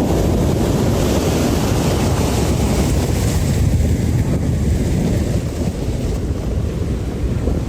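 Loud, steady rush of a flash flood's torrent of water, with wind buffeting the microphone.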